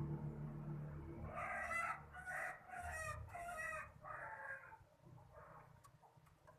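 A rooster crowing once: a drawn-out crow of several linked pitched notes lasting about three seconds, beginning a little over a second in. A low engine hum fades out underneath at the start.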